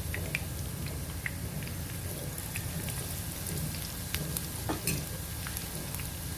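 Banana blossom fritters deep-frying in hot oil: a steady sizzle with scattered crackling pops.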